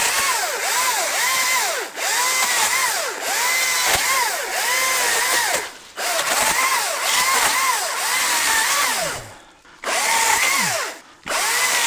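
ECHO DCS-2500T battery top-handle chainsaw's electric motor whining up and down in quick surges as it cuts small brush. Its pitch rises and falls about every half second, and it stops briefly now and then, near two, six, nine and eleven seconds in.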